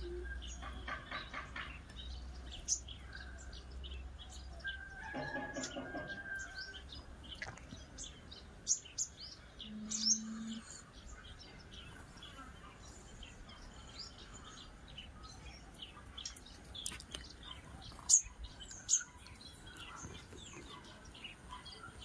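Small birds chirping in short, sharp, high notes scattered irregularly, with a handful of louder chirps standing out.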